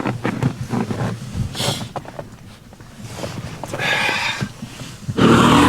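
Irregular clicks and short rattling bursts, then a cold truck engine catches about five seconds in and runs up loudly with a rising, revving pitch.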